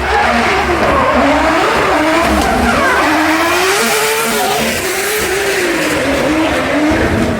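A performance car's engine revving up and down over and over, as when a car is drifting, with a hiss of sliding tyres that is strongest in the middle.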